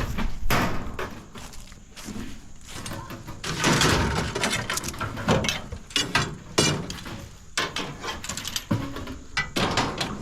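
Scrap metal being handled and loaded into a truck: irregular clanks and thumps of pieces being set down and knocked together, with a longer scrape of metal sliding a few seconds in, and footsteps.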